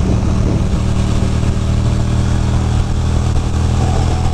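Ducati Monster 620's air-cooled L-twin engine running steadily at an even pitch while the motorcycle is ridden, under a steady rush of road and wind noise.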